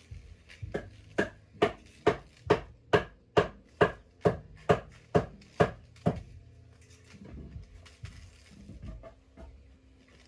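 About a dozen hard, evenly spaced blows, roughly two a second, as a tool strikes something over and over. They stop about six seconds in and give way to a few fainter, irregular knocks.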